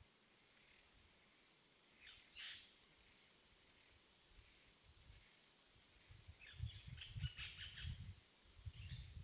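Faint outdoor ambience with a steady high-pitched hiss, with short bird chirps once about two seconds in and in a cluster over the last three seconds. Low dull thumps come in over the last three seconds and are the loudest sounds.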